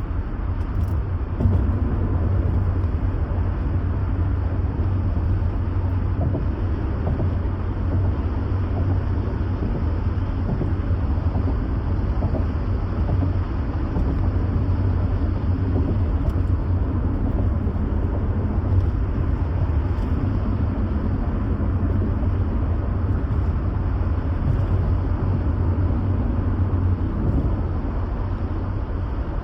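Steady low rumble of a car being driven, road and engine noise heard inside the cabin.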